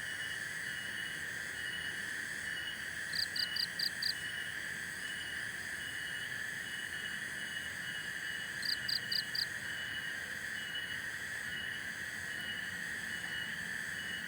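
Nighttime chorus of crickets and other insects: a steady shrill drone with a regular chirp about twice a second. Twice, a short run of four or five quick, high-pitched chirps from another calling animal stands out, about 3 seconds in and again near 9 seconds.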